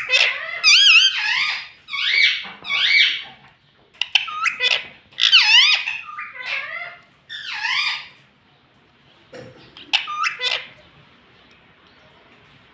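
A parrot giving a run of loud, warbling calls with a wavering pitch for about eight seconds. After a pause come two short, sharp calls.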